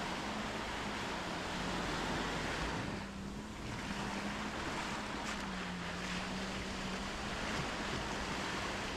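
Surf washing onto a sandy beach: a steady rush of small waves that eases briefly about three seconds in, with a faint steady low drone underneath.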